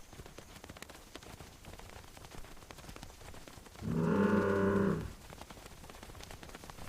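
A cow mooing once, a single steady call of a little over a second about four seconds in, over a faint background of small ticks.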